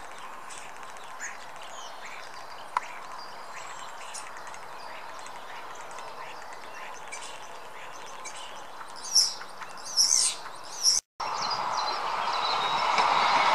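Small birds chirping and calling in short high notes, with a few louder calls about nine to ten seconds in. About eleven seconds in the sound drops out for a moment and gives way to a steady hiss that grows louder.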